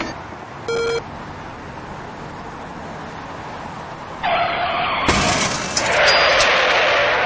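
A car skidding with its tyres screeching for about three seconds, with a sudden crash impact about five seconds in. It is preceded by a short electronic beep near one second in over steady road noise.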